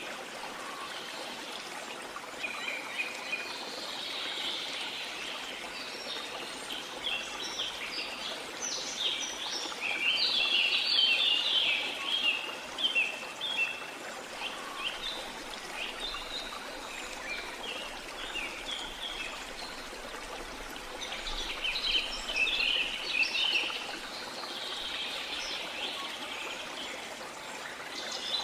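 Steady rush of a waterfall, with birds chirping over it in scattered bursts, busiest from about nine to fourteen seconds in and again around twenty-two seconds.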